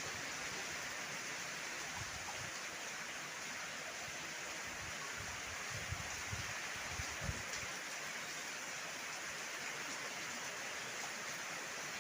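Heavy rain falling steadily, a dense even hiss, with a few brief low gusts of wind a little past the middle.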